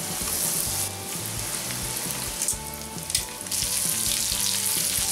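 Breaded beef cutlets sizzling as they shallow-fry in hot oil in a pan. The sizzle gets louder about three and a half seconds in, as a cutlet is turned over with tongs.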